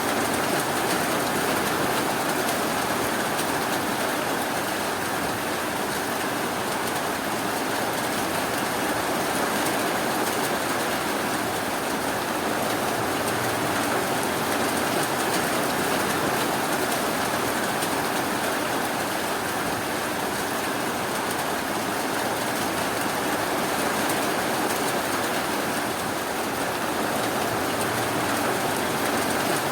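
Steady, continuous rainfall, an even hiss of rain with no breaks or sudden sounds.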